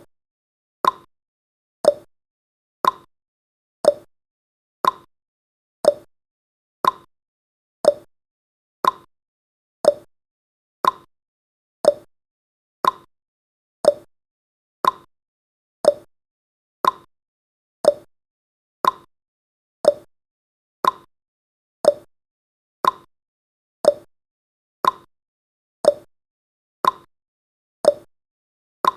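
Clock-tick sound effect marking each second of a countdown: one short, sharp tick a second, alternating between a higher and a lower tick, tick-tock.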